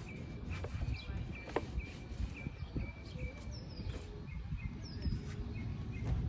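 Small birds chirping in short repeated notes, with a couple of falling high whistles, over a low outdoor rumble and a few light knocks.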